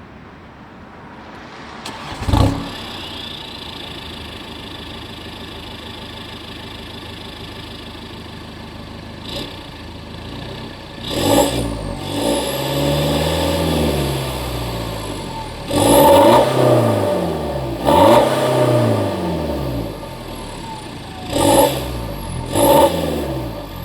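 BMW F30 320d's four-cylinder diesel, its particulate filter removed and the exhaust otherwise stock, starting about two seconds in and idling steadily. From about halfway it is revved repeatedly: short blips and one longer held rev, each rising and falling back to idle.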